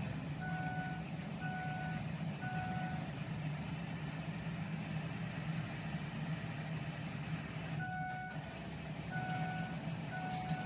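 6.0 Powerstroke turbo V8 diesel idling steadily just after a cold start in deep cold, with a low, even rumble. Over it a single-pitched beep repeats about once a second, falls silent for a few seconds in the middle, then resumes.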